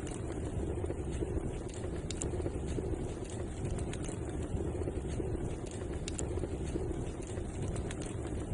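Wood fire burning in a fireplace: a steady low rumble of flame with scattered sharp crackles and pops at irregular moments.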